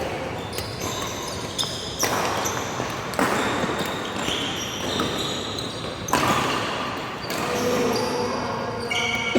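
Badminton rally in a sports hall: several sharp racket hits on the shuttlecock, with short high squeaks of shoes on the court in between.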